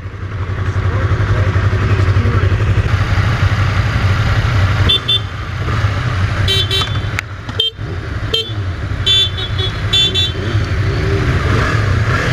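Motorcycle engine running with a steady low rumble and wind on the microphone, with a run of short, high beeps about halfway through.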